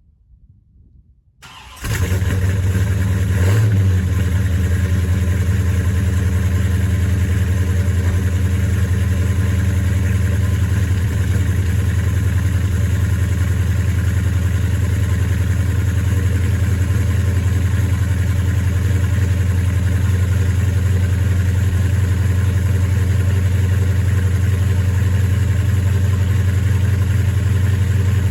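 Road Runner's 383 V8 engine comes on suddenly about two seconds in and then idles steadily and loudly.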